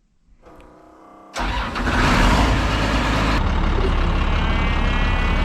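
A large engine is cranked over briefly, catches about a second and a half in, and keeps running steadily.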